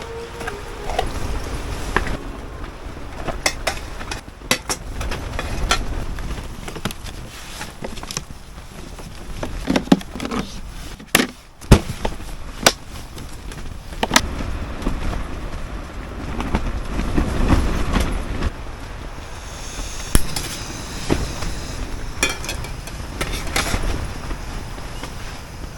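Wind buffeting the microphone in a low rumble, with scattered sharp knocks and clatter throughout.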